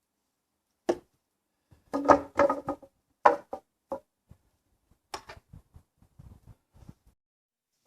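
A run of irregular wooden knocks and clunks, a length of timber being handled and knocked into place under the shed roof, followed by lighter, quicker taps.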